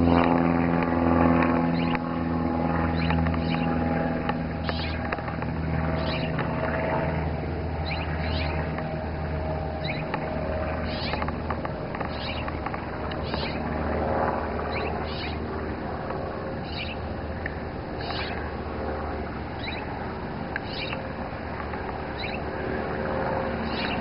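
A bird repeating short, high chirps every second or two. Under it is a low engine hum that fades away over the first several seconds.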